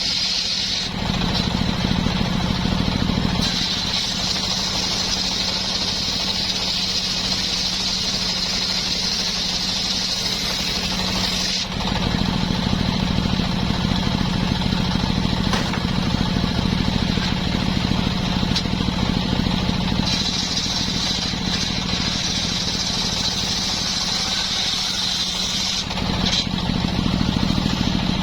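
Two-stroke chainsaw running at high revs, cutting wood. It runs without a break, and its loudness and pitch shift a few times: about a second in, around twelve seconds in, and again near the end.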